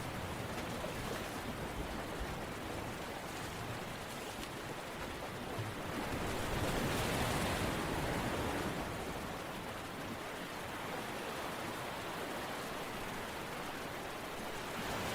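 A steady, even rushing noise with no distinct strokes or tones, swelling louder for a few seconds about six seconds in.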